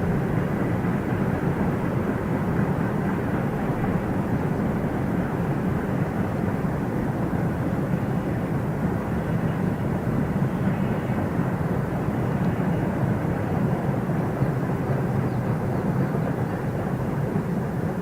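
Freight train rolling past: a steady rumble of wheels on rails.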